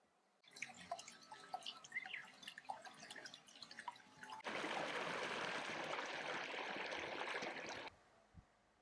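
Water trickling and dripping with many small plinks and splashes, then an abrupt change about four and a half seconds in to a louder, steady rush of flowing water, which cuts off sharply near the end.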